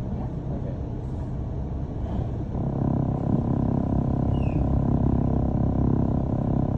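London bus running, a low rumble heard from inside the passenger cabin. About two and a half seconds in, a louder, steady hum joins it.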